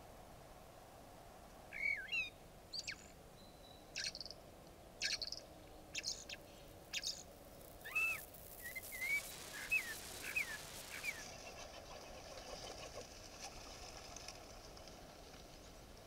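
Bird calls: a series of short, sharp call notes, then a quick run of short chirps that stops about two-thirds of the way through.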